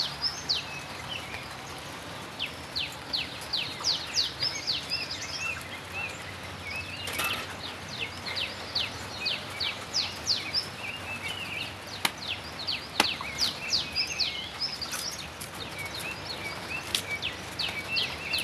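Birds singing: runs of quick, high notes that each fall sharply in pitch, several a second, with lower twittering calls between them and a few sharp clicks.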